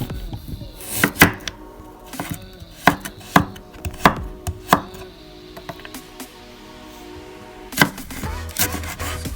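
A kitchen knife chopping on a cutting board: several sharp cuts at an uneven pace, in small clusters.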